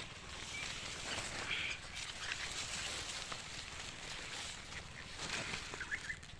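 Outdoor rural background with a few faint, short bird chirps now and then.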